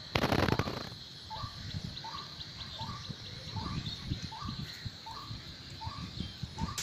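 A bird repeating a short rising call about every 0.7 seconds, over a steady high thin tone and a low rumble. A loud noisy burst lasting under a second comes just after the start.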